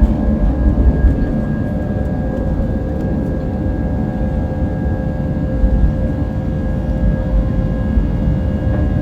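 Jet airliner's engines at takeoff thrust, heard from inside the passenger cabin: a steady low rumble with a steady whine above it.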